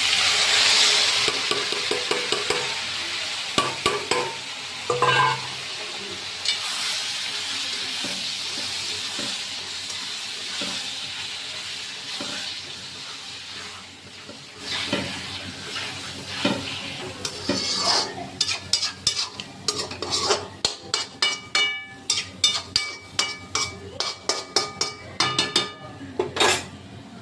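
Food sizzling loudly in hot oil in a pan, the sizzle fading over about fifteen seconds. After that a metal spoon stirs and scrapes the pan in quick, repeated strokes, with light clinks against the metal.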